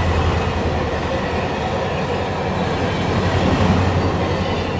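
A train running along the rails: a steady rumble with a rattle of wheels on track, beginning to fade near the end.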